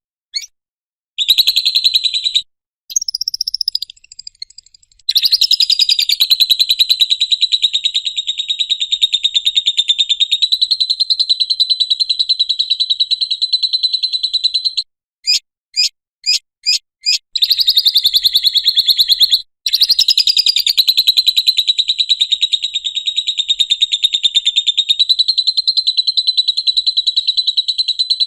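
Lovebird ngekek: long, unbroken runs of rapid, high-pitched chattering, each lasting around ten seconds. Midway a short pause holds a few separate chirps before the chatter starts again.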